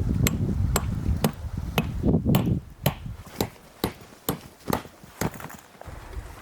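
Sharp, evenly spaced ticks about twice a second, over a low rumble that dies away about halfway through.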